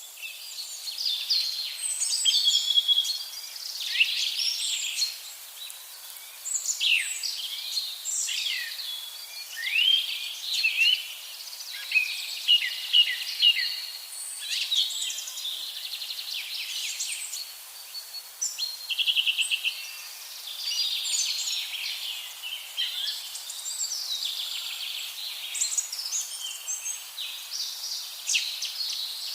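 Songbirds singing and calling in overlapping chirps, whistles and short phrases, with a fast trill about nineteen seconds in.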